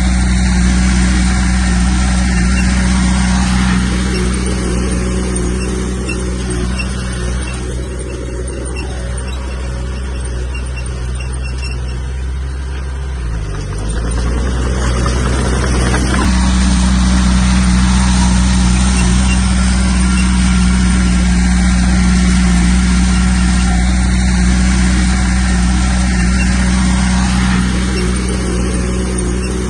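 Komatsu bulldozer's diesel engine running steadily under work, its pitch dipping briefly about 13 seconds in before settling back.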